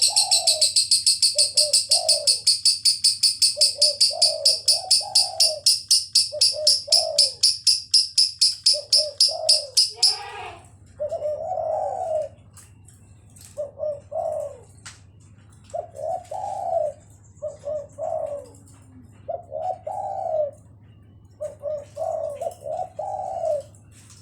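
Spotted dove cooing in repeated short phrases, dueting with a lovebird's long, fast, high-pitched chattering trill of about four or five notes a second; the lovebird's trill stops abruptly about ten seconds in, leaving the dove cooing alone.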